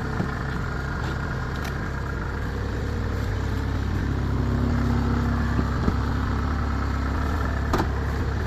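Kubota DC70 Plus rice harvester's diesel engine running steadily at an even, low pitch, with a couple of faint clicks.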